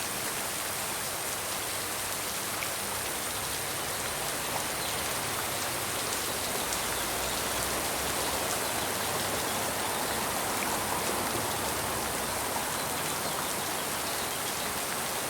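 Steady rain falling, with a dense even hiss and scattered small drop ticks.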